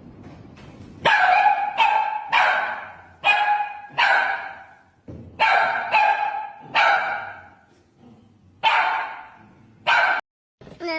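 A dog barking loudly, about ten barks in uneven groups, each one starting sharply and trailing off.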